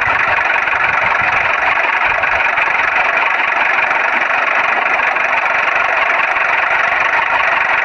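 A small motor running steadily with an even whirring noise and no change in speed.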